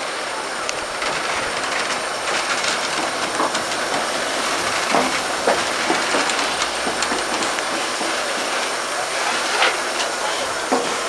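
Train rolling slowly along the rails, its wheels clicking and briefly squealing against the rails.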